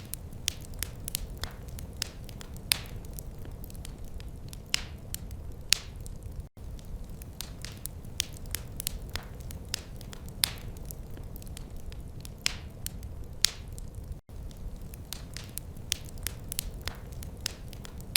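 Wood fire crackling in a fireplace: irregular sharp pops and snaps, several a second, over a steady low rumble of the flames. The sound cuts out for an instant twice.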